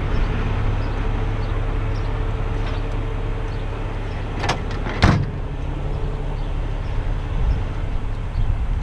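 Truck diesel engine idling steadily, with two sharp knocks about four and a half and five seconds in.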